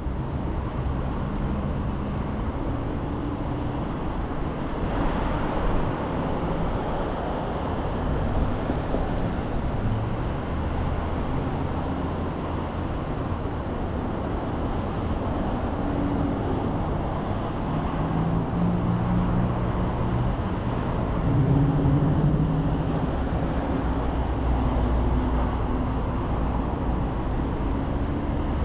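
Car driving at road speed, heard from inside the cabin: steady road and tyre noise under a low engine hum that rises and falls in pitch a few times.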